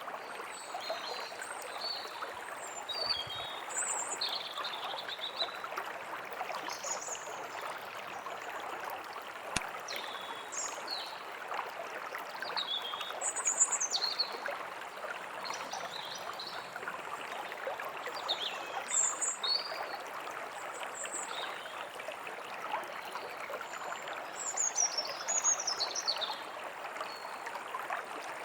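A stream babbling steadily, with small songbirds chirping and calling throughout, thickest in a few flurries.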